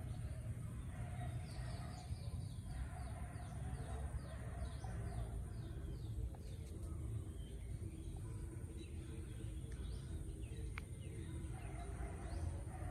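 A small bird chirping a quick run of short falling notes, about four a second, for several seconds, then only a few scattered chirps, over a steady low rumble.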